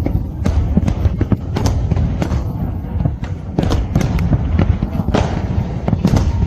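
Fireworks display: repeated bangs and crackling bursts, a dozen or more over a few seconds, over a continuous low rumble.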